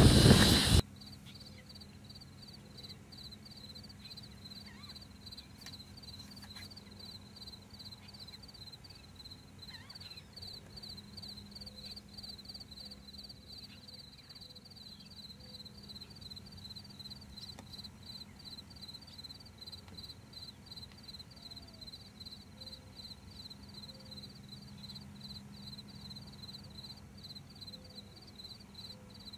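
Wind rushing on the microphone for about a second, cutting off suddenly. Then a cricket chirps in a steady, even, rapid pulsing rhythm against a faint low background hum.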